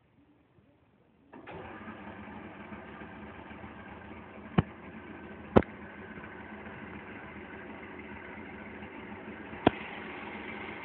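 Mercury 115 outboard engine that comes in suddenly about a second in and then runs steadily at idle, with three sharp clicks over it.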